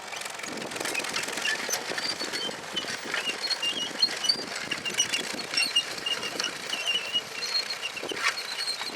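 1920s John Deere Hoover potato planter working, its mechanism clicking and clattering irregularly, with birds chirping throughout.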